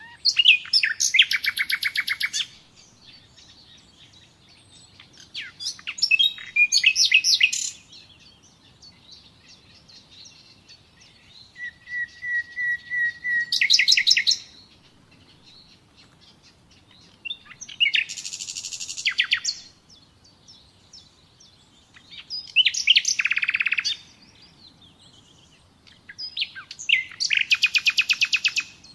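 Nightingale singing: six separate song phrases a few seconds apart, each a rapid run of repeated notes. One phrase opens with a row of soft, even whistles on one pitch, then breaks into a loud fast trill.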